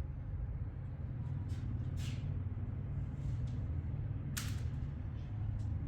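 Carpet cleaning machine's motor running with a steady low hum, with a few short knocks or scrapes on top, the loudest about four and a half seconds in.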